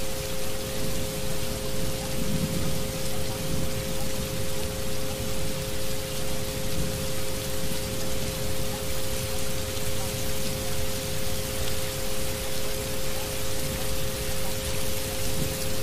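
Recorded rain hissing steadily, with two steady pitched isochronic tones underneath; the sound swells and fades evenly about twice a second.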